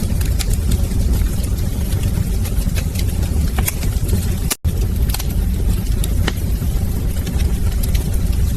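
Wood fire crackling in a fireplace: a steady low rumble of flames with frequent sharp pops and crackles. The sound cuts out for a split second about halfway through.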